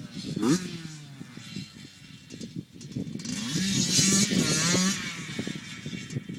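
Two-stroke dirt bike engine revving: a short rev about half a second in, then a louder stretch of revving around four seconds in that fades toward the end.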